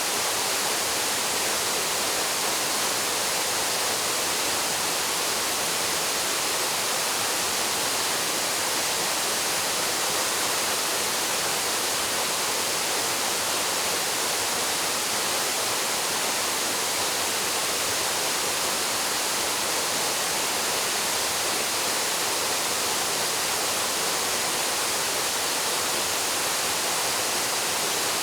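Paraeso Falls, a waterfall, pouring steadily: an even rush of falling water, mostly high hiss with little low rumble.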